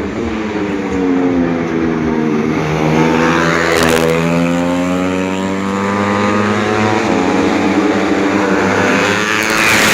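Several four-stroke 125 cc underbone racing motorcycles at full revs passing by, their engine notes climbing to a peak about four seconds in and then falling away, with more engines coming up near the end.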